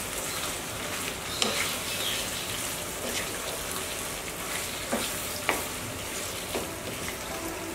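Yogurt-marinated chicken pieces sizzling in oil in a frying pan while a wooden spatula stirs and turns them, with a few sharp knocks of the spatula against the pan. The meat is being fried down in its spices (kosha), stirred so the yogurt does not stick to the bottom.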